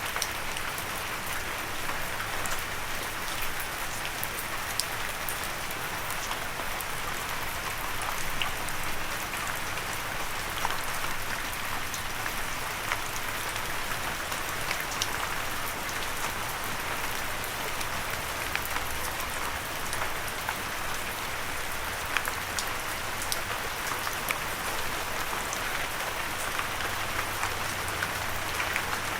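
Steady light rain falling, an even hiss with scattered individual drops ticking sharply on a surface. No thunder.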